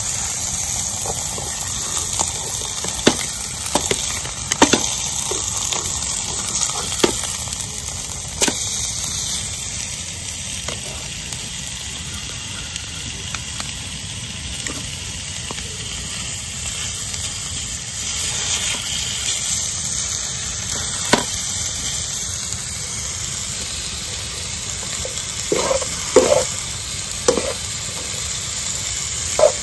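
Pork chops and sliced mushrooms sizzling steadily in skillets over a campfire, with now and then the sharp click of metal tongs.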